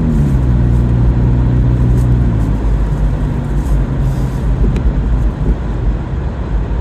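Car engine running while driving, with road noise; its pitch drops just after the start and again about two and a half seconds in as the car slows or shifts, then settles into a steady hum.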